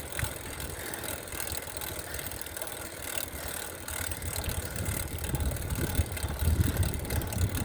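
Wind buffeting a phone microphone: a gusty low rumble, stronger in the second half, over a steady hiss.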